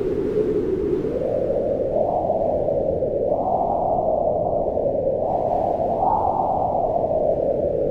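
Wind blowing in a low, rushing drone that swells and eases in slow gusts, building a few times over the seconds.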